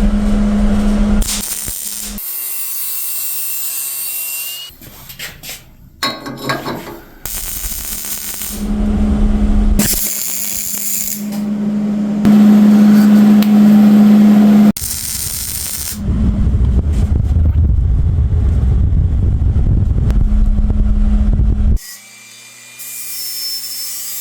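A string of short workshop clips of power tools running, each a second or a few seconds long and cut off abruptly into the next.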